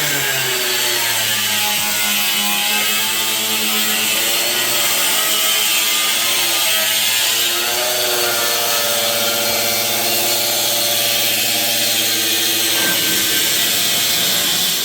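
A power tool running steadily with a strong hiss, its pitch wavering up and down; it starts and stops abruptly.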